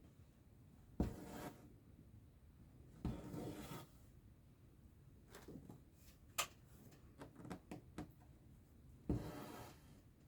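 Needle and thread being pulled through cross-stitch fabric: three short pulls, each starting with a sharp click, with lighter clicks between them.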